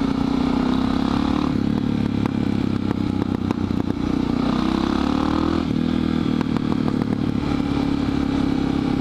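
Suzuki DR650's single-cylinder engine running while the motorcycle is ridden, its note shifting pitch about one and a half seconds in and again around five and a half seconds.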